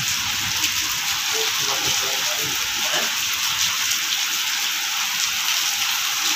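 Heavy rain falling on wet paving tiles and a metal gate: a dense, steady hiss of drops splashing on the ground.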